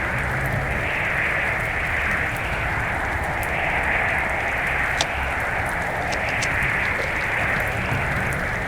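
Blizzard wind blowing steadily, with a low, uneven rumble of wind buffeting the microphone and a few faint ticks.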